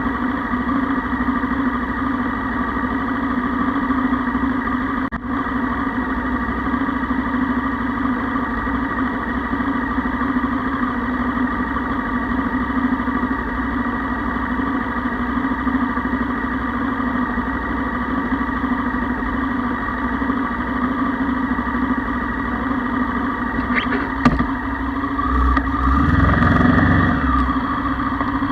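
Motorcycle engine idling steadily, left running because a fault means the bike would not restart if switched off. Near the end there is a sharp click, then a short swell in the engine sound as the bike edges forward.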